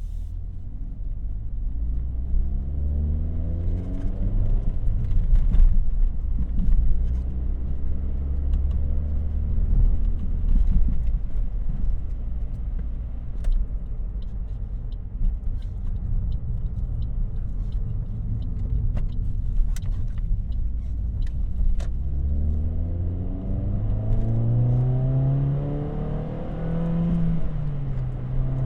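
Car engine and aftermarket exhaust heard on a drive: it pulls up in pitch at the start and settles into a steady low drone while cruising. Near the end it revs up again, then drops suddenly as it shifts gear, with a few sharp clicks and rattles along the way.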